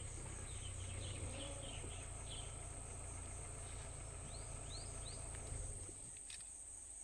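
Jungle insect chorus: a steady high-pitched drone of crickets or cicadas, with a run of short bird chirps in the first couple of seconds and three quick rising bird notes a little past the middle. Under it a low rumble fades out about six seconds in.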